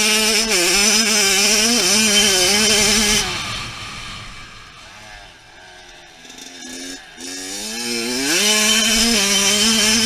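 Small two-stroke dirt bike engine revving hard, its buzzing pitch wavering as the throttle is worked. It fades for a few seconds in the middle, then comes back loud with the revs climbing about eight seconds in.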